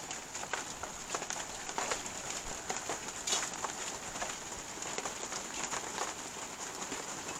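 Rain pattering steadily, with many small drop impacts ticking irregularly throughout.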